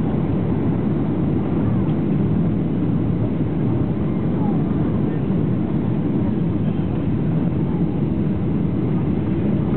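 Steady rumble of a Boeing 737-800's CFM56 engines and rushing air, heard from inside the aircraft as it descends on approach.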